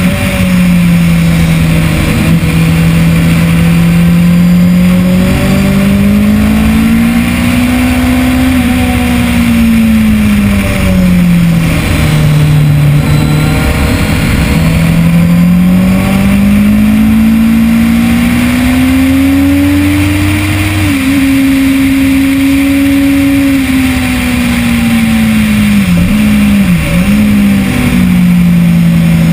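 2010 Kawasaki ZX-10R's inline-four engine at speed on track, its note rising and falling as the rider accelerates, shifts and brakes, with a sudden drop about two-thirds in and two quick dips near the end. Wind rush lies under the engine.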